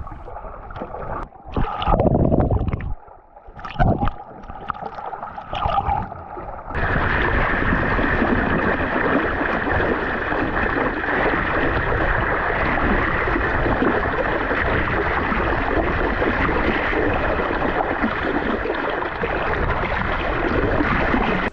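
Muffled gurgling and a few loud surges of water around a GoPro held underwater beside a sailing dinghy. About seven seconds in, this switches abruptly to a steady rush of wind and water noise on the camera's microphone as the dinghy sails along.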